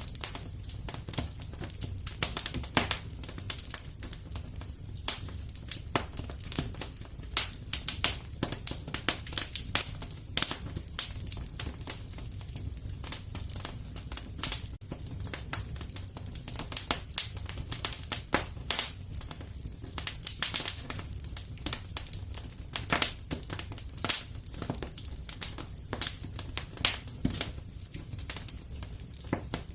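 Wood fire crackling in a fireplace: a low steady rumble of burning under irregular sharp pops and snaps.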